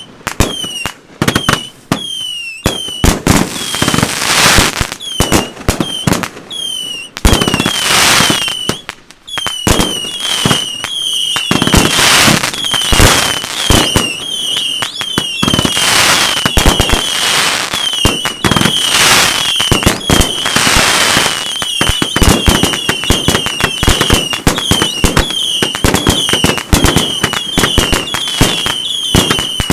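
Consumer firework cakes firing in a dense barrage: sharp bangs mixed with many short whistles that each dip slightly in pitch, and bursts of crackle. The firing grows almost continuous about a third of the way in.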